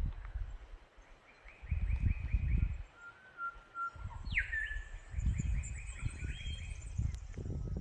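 Several wild birds singing, with rapid trills, a loud sharply falling note about halfway through, and a short steady whistle. Low gusty rumbles come and go beneath them and are the loudest sound.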